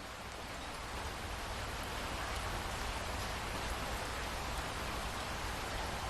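Steady heavy rainfall: a dense, even hiss of rain on surfaces with no thunder. It dips slightly at the start and then builds gradually.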